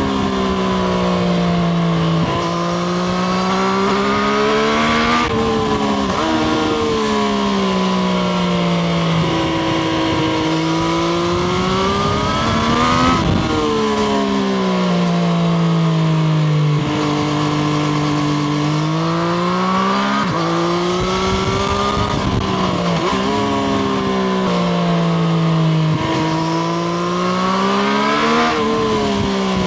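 Triumph Street Triple RS's inline three-cylinder engine heard from on board, revving up and easing off again and again as it is ridden, its pitch climbing and falling several times with sharp peaks, over steady wind noise.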